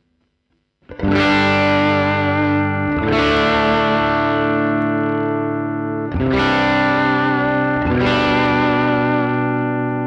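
Electric guitar played through a Fractal Audio FM9 amp modeller on one of its stock presets, heard direct from the unit: four loud chords struck about a second apart to three seconds apart, each left to ring out. The first chord comes in after about a second of near silence.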